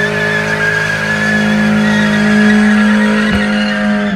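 Car tyres squealing in a burnout or drift, with the engine held at steady high revs. There is a brief dip about three seconds in, and the sound falls away at the end.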